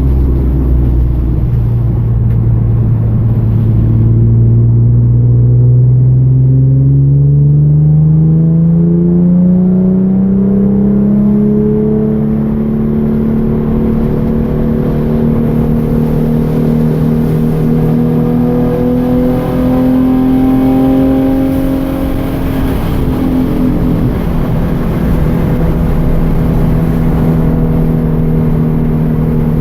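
2013 Hyundai Genesis Coupe's 3.8-litre V6 engine at speed on a track lap: its pitch falls briefly at the start, then climbs slowly for about ten seconds as the car accelerates, and holds nearly steady for the rest, with a short dip about two-thirds of the way through.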